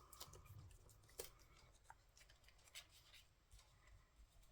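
Faint handling of paper and cardstock: scattered light ticks and soft rustles as small paper pieces are picked up and set down, with the sharpest tick about a second in.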